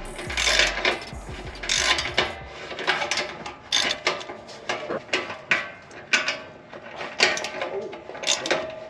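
Ratchet wrench clicking in an irregular run of sharp clicks, about two to three a second, as bolts are worked on a car's cat-back exhaust.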